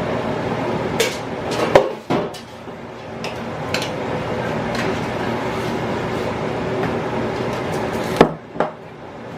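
Scattered knocks and clatter of a dish being handled and set down on a kitchen counter: a few sharp knocks about a second in, lighter taps through the middle, and two sharp knocks near the end, over a steady background hum.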